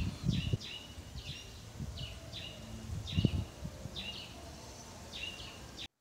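A bird calling over and over: short high notes that dip in pitch, often in pairs, about every half second. Low thumps on the microphone at the start and about three seconds in; the sound cuts off suddenly just before the end.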